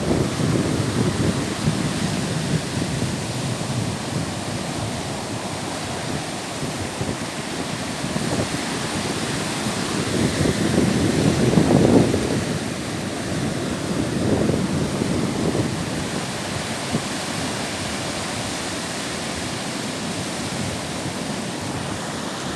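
Baltic Sea surf washing onto the shore, mixed with wind buffeting the microphone; the noise swells and eases, loudest about halfway through.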